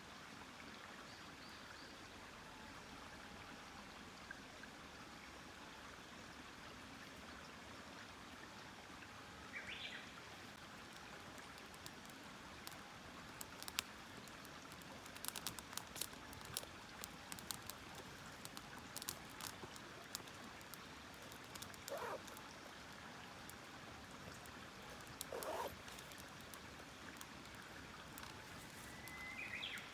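Campfire wood crackling: irregular sharp snaps and pops, thickening from about halfway through, over a steady low hiss. A few short animal calls come through, one about a third of the way in and two more later.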